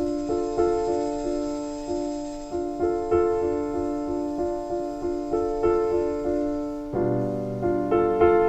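Background piano music: a gentle repeating pattern of notes at an even pace, with lower bass notes joining near the end.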